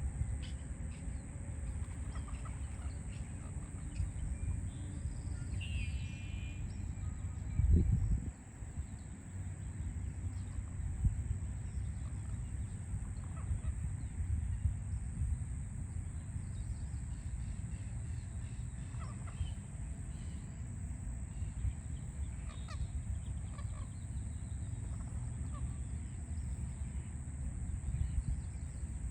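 Park birds calling over a steady low rumble of city traffic, with a honking call about six seconds in. A loud low thump comes about eight seconds in.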